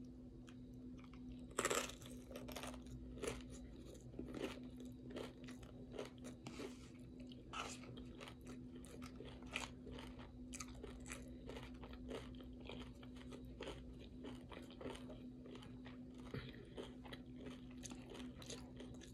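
Close-up chewing of tortilla chips topped with taco salad: a steady run of small crunches and mouth sounds, the loudest crunch about two seconds in, over a faint steady hum.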